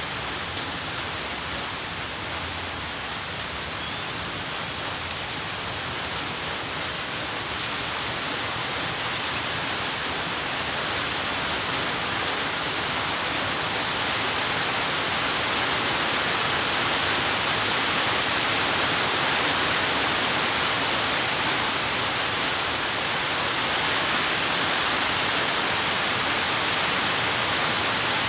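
Heavy rain falling as a steady, even hiss, swelling slightly louder over the second half.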